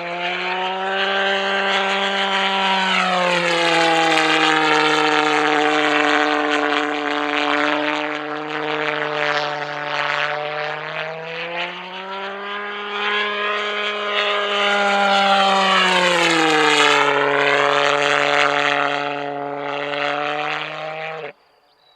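Pulso pulsejet engine of a model Heinkel He 162 running in flight: a loud, steady buzzing drone whose pitch rises and falls twice as the jet passes. It cuts off suddenly near the end.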